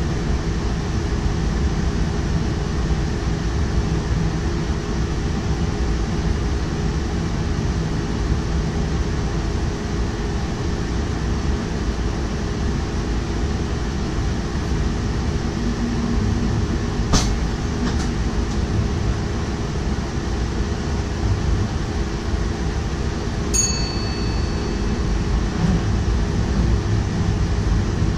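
DDAR double-deck train running on the line, heard from the driver's cab: a steady rumble and hum of the running gear on the rails. Two sharp clicks come about 17 and 18 seconds in, and a short ringing ding about 23 seconds in.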